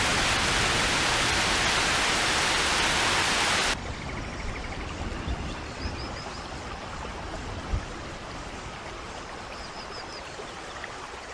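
Heavy rain, a loud steady hiss, that cuts off abruptly a few seconds in and gives way to a quieter, duller water noise with faint short high chirps twice and a single tap.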